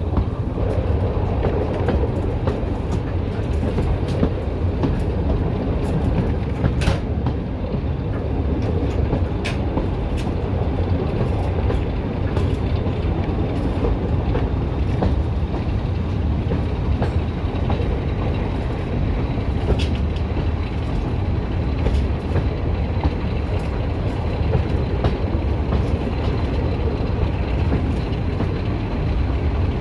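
Heritage diesel train running steadily: a deep, even rumble with scattered sharp clicks of the wheels over the track.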